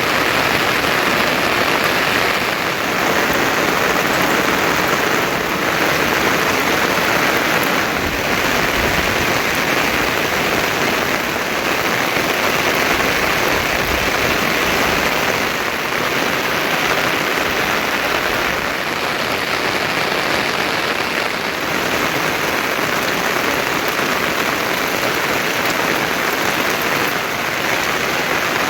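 Heavy monsoon rain falling steadily, a dense even hiss.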